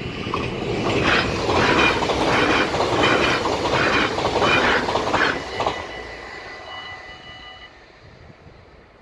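NS double-decker passenger train passing fast over a level crossing: a loud rush of wheels on rail with a regular clatter as the wheelsets go by, strongest from about one to six seconds in, then fading away. The crossing's warning bell rings steadily under it and stops near the end.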